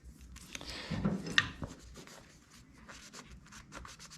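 Light scraping and small metallic clicks of hand work on a machine screw, with a brief ring about a second in and a run of quick ticks in the second half.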